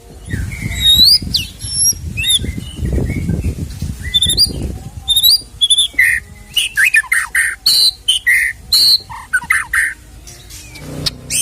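White-rumped shama (murai batu) singing a fast, varied song of whistles, rising glides and harsh chirps, the mimicked phrases that make up its isian. A low rumble runs under the first few seconds.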